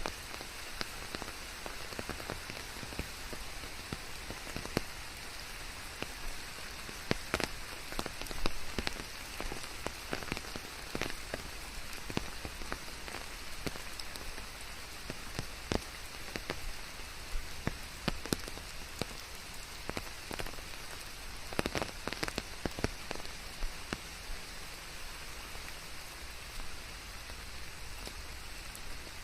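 Steady rain falling, an even hiss with many separate drops striking close by, a few of them louder ones.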